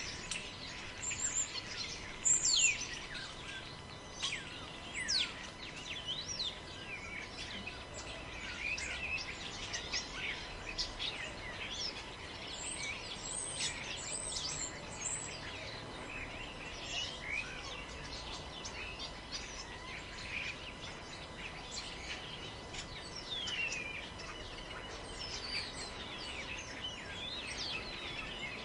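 Forest birds chirping and calling, with many short chirps and quick downward-gliding whistles, over a faint steady background hiss.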